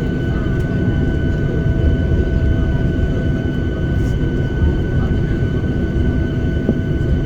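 Steady cabin noise inside a Boeing 737-800 taxiing, its CFM56 engines at idle: a constant low rumble with a thin, steady high whine over it.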